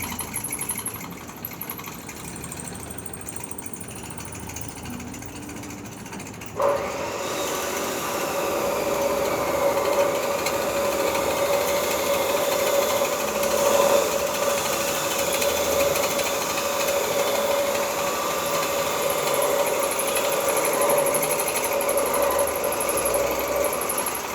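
Electric arc welding on foundation bolts. The arc strikes suddenly about a third of the way in, then runs as a steady crackling hiss with a constant buzzing tone.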